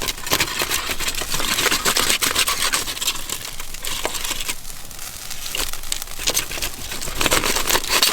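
Dense crackling and sizzling from food cooking over a wood campfire, full of small sharp pops, swelling and easing a few times.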